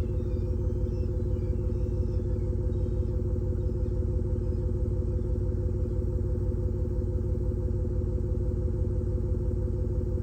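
Simulated Mercedes-AMG S63 V8 exhaust note from a THOR exhaust speaker fitted to a Toyota Prius PHV, idling as a steady, even low rumble.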